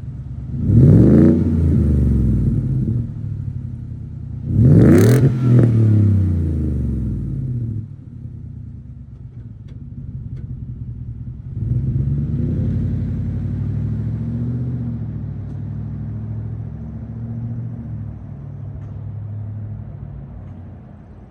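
Ford F-150's 5.0L Coyote V8 through a stainless aftermarket cat-back exhaust with a straight-through muffler, blipped twice about four seconds apart, each rev climbing sharply and falling back to idle. About eleven seconds in, the engine note rises again and holds a steady drone that slowly fades.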